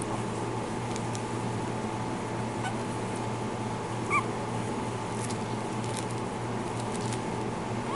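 A Boston Terrier puppy gives a single short, high squeak about halfway through, over a steady background hum.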